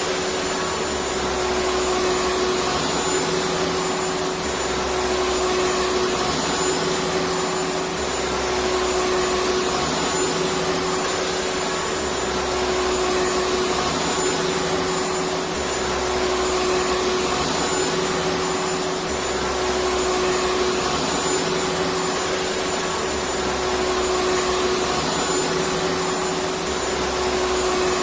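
Vacuum cleaner running steadily without a break: an even rush of air with a steady hum over it.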